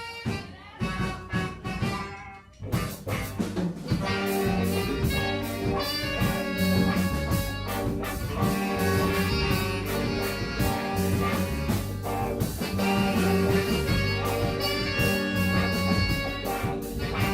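Live band playing music: sparse opening notes for the first couple of seconds, then the full band comes in about three seconds in and plays on steadily.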